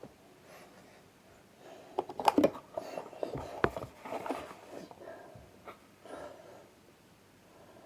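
Packaging being handled while unboxing a speaker: a cluster of sharp clicks and knocks with rustling about two seconds in, then quieter, scattered handling.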